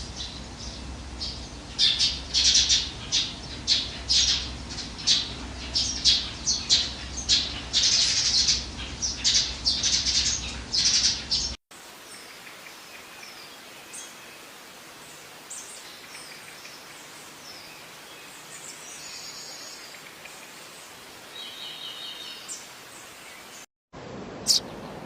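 Sparrows chirping: a rapid run of loud, short chirps for about the first eleven seconds, then, after an abrupt cut, sparser and fainter chirps with a couple of buzzy calls, and a few loud chirps again near the end.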